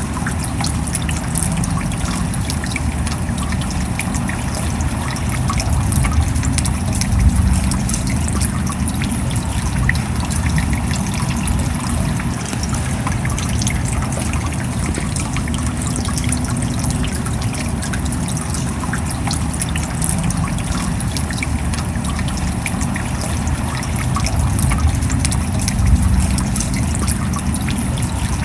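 Steady rain with a constant trickle of running water and dense drops ticking throughout.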